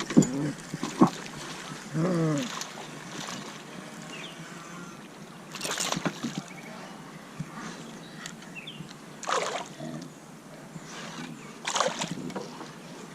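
Water splashing at a kayak a few times, two or three seconds apart, with a brief whine about two seconds in.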